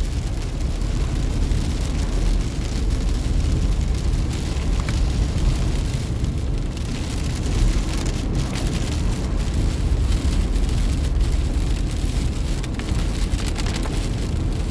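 Car driving on a rain-soaked road in a tropical storm: steady low road and tyre rumble with rain and spray hitting the car.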